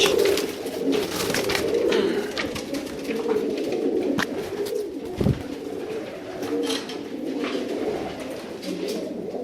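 Domestic pigeons cooing continuously, with scattered clicks and rustles among the birds.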